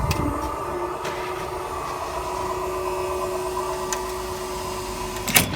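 Train running slowly past with a steady mechanical hum of several level tones, then a few sharp clicks about five seconds in.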